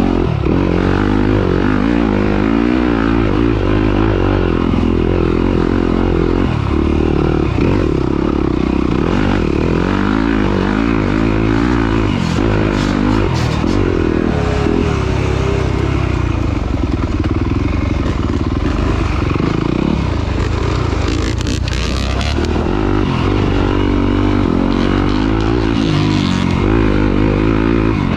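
Motocross dirt bike engine running hard, its pitch rising and falling over and over as the throttle is worked, with a few clattering knocks from the bike.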